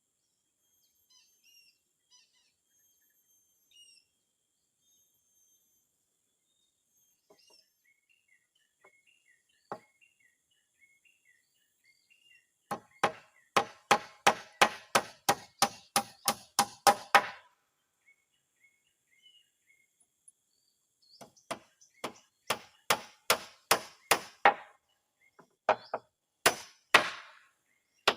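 Hammer driving nails into wooden floorboards: a fast run of blows, about four a second, then after a short pause a second run. Birds chirp faintly before the hammering starts.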